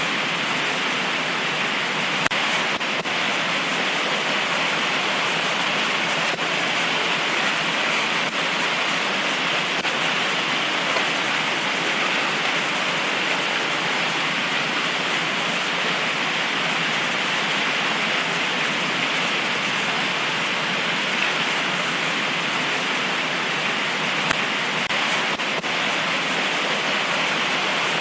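Heavy tropical rain pouring down steadily, a dense, even hiss with a few faint individual drop ticks.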